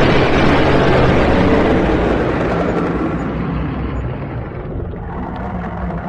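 Dragon sound effect: a loud, rumbling, rushing roar with a deep low rumble beneath it, slowly fading away.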